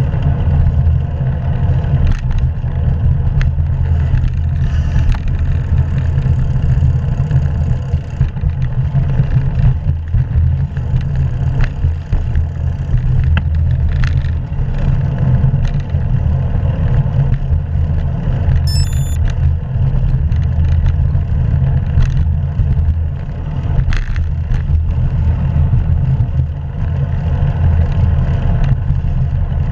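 Steady, loud wind rumble on a GoPro action camera's microphone while cycling, mixed with road and tyre noise, with scattered light clicks.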